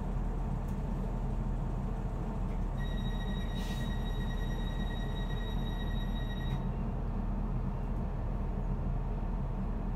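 Inside a passenger train carriage stopped at a station platform: the train's steady low rumble and hum. About three seconds in, a steady high electronic tone sounds for nearly four seconds, with a brief hiss partway through.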